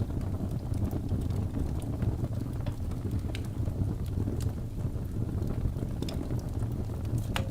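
Wood logs burning in a fireplace: a steady low rumble of flames with scattered sharp crackles and pops, one louder pop near the end.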